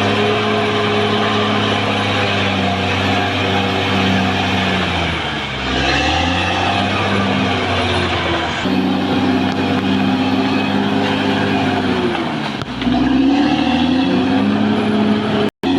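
Caterpillar D6R XL bulldozer's diesel engine running hard under load. Its pitch sags and recovers three times as the machine works. It cuts out for an instant near the end.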